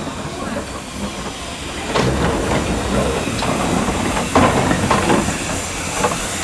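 Heritage steam locomotive at the station: a steady hiss of steam with low rumbling and irregular knocks, growing louder about two seconds in.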